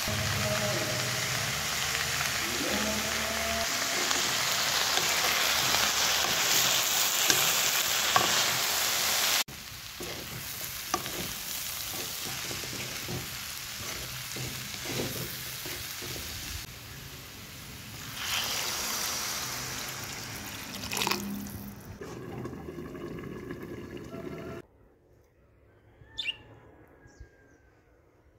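Cabbage, potato and cashews sizzling as they fry in a wok. The sizzle is loud at first and drops abruptly about nine seconds in, continuing quieter with the scrapes and knocks of a wooden spatula stirring. Near the end it falls almost silent, with a faint short chirp.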